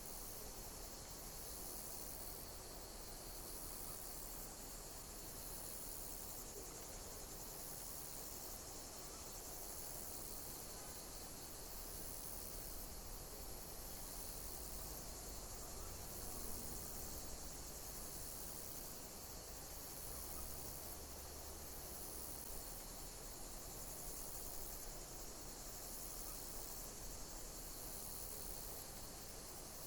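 Insects chirping in high-pitched pulses that repeat about every two seconds over a steady, even hiss.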